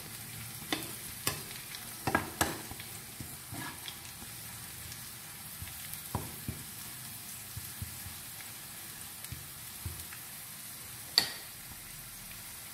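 Sliced onion, cumin, nigella seeds and round dried red chillies sizzling in olive oil in a pan for a tadka, a steady frying hiss over a low flame. A metal spoon stirring the pan gives a few sharp clicks, the loudest about two seconds in and near the end.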